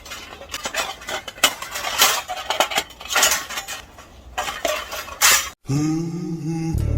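Metal parts of a folding camping fire stand clinking and clattering as they are handled and slotted together, a quick irregular run of sharp metallic knocks. After a brief cut near the end, background music begins.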